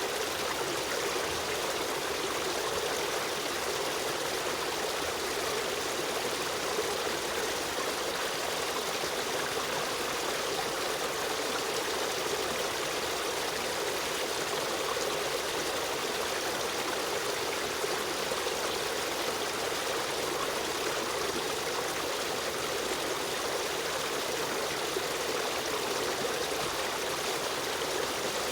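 Running water of a river stream, a steady rushing with a trickling texture.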